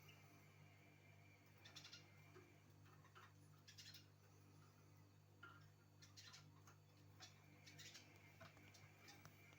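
Faint short chirps and calls of small songbirds, coming singly and in little clusters several times, over a steady low hum.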